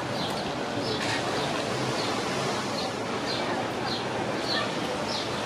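A bird calling over and over: a short, high, falling chirp about every half second, over a steady rushing background noise.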